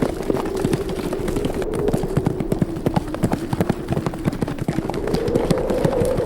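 Hooves of several galloping horses, a dense irregular patter of thuds, over wind with a wavering moan that rises near the end.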